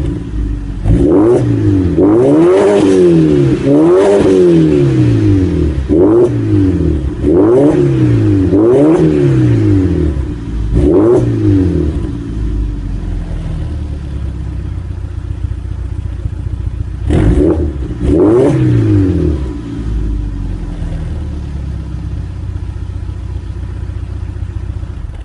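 BMW N42 four-cylinder engine heard through its exhaust, blipped quickly about eight times in a row, each rev rising and falling back, then settling to a steady idle. It is blipped twice more partway through and returns to idle before the sound cuts off suddenly at the end.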